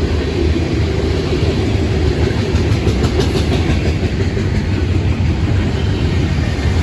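Freight train cars rolling past on the rails: a steady, loud rumble of steel wheels on track, with some clickety-clack from the wheels crossing rail joints around the middle.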